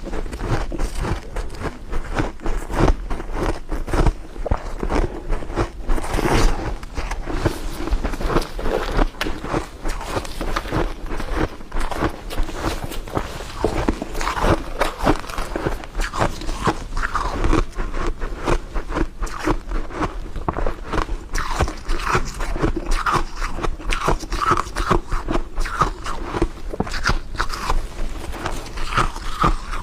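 A person biting and chewing frozen frost, a dense run of crisp crunching and crackling with no pauses. Short squeaky notes recur in the later part as the frost is crushed.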